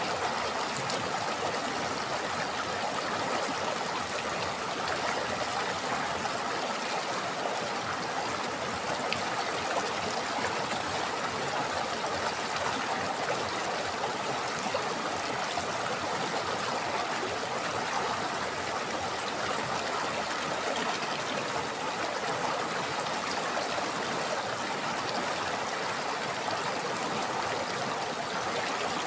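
A river flowing over rocks, steady rushing and gurgling water. A faint, steady high hiss sits over it.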